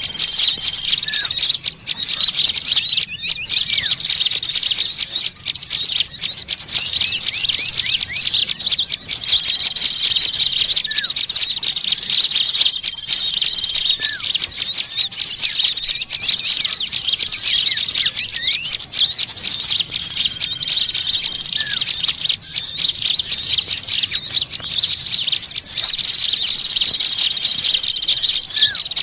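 A dense, agitated chorus of small songbirds chattering without pause, many rapid high chirps overlapping. A lower, short downward-sliding call comes through every few seconds.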